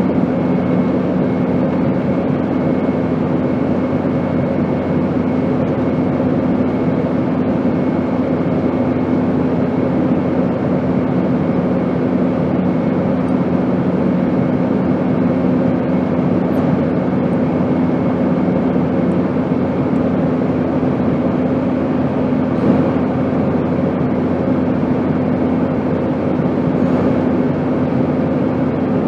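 Steady airplane noise: an even rushing sound with a constant low hum in it, unchanging throughout.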